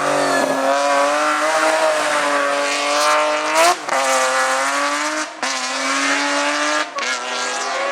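Race car engine at full throttle, its pitch climbing and then dropping sharply at three upshifts.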